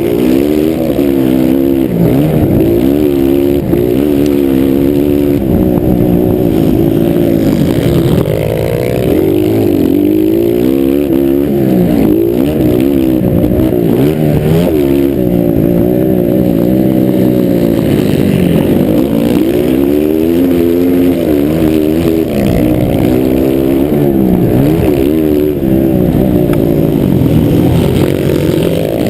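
Several motocross dirt bikes racing on a track, their engines overlapping and revving up and down continuously as they accelerate, shift and back off through the course.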